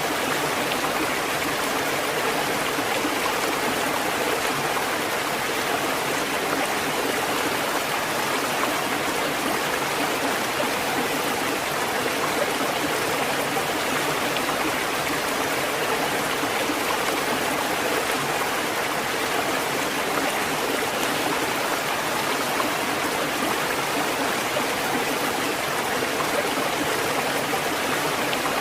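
Steady rushing water, an even hiss and rush with no surge or rise and fall of breaking waves.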